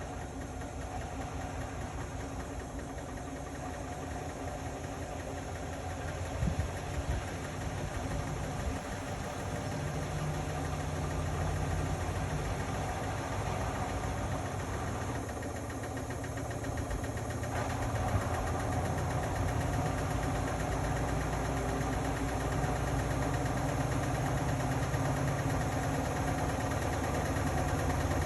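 Indesit Innex BWE 91496X washing machine running, a low motor and drum hum that gradually grows louder, with a couple of brief knocks about six and a half seconds in.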